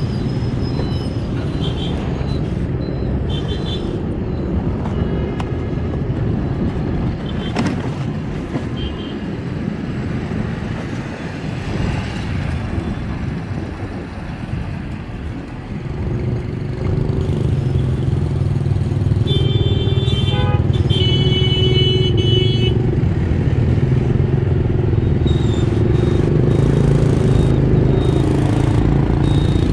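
Street traffic of motorbikes and cars: a steady engine hum and road noise that grows louder about halfway through. Several horn toots sound around two-thirds of the way in.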